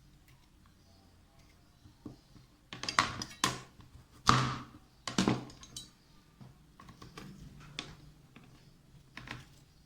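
Kitchenware clinking and knocking: after a quiet start, a flurry of sharp clatters about three seconds in, some ringing briefly, then lighter scattered taps.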